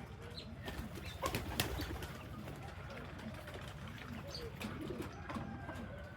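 Several desi (local domestic) pigeons cooing, low rising-and-falling coos repeating and overlapping. A short run of sharp clicks and clatter comes between one and two seconds in.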